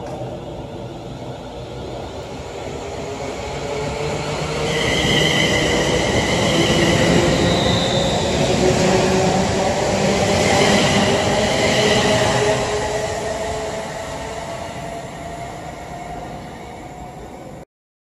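London Midland Class 350 Desiro electric multiple unit passing close by: a rumble of wheels on the rails with a steady high whine, building to a peak in the middle and then fading. The sound cuts off abruptly near the end.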